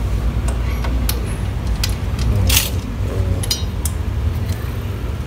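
Small metal parts and tools being handled, with scattered light clicks and clinks and one louder brief clatter about two and a half seconds in, over a steady low rumble.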